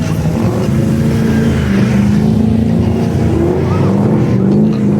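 Car engine running loudly, its pitch drifting up and down.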